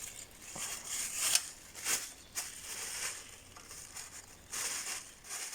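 Irregular rustling and crunching, in half a dozen uneven bursts.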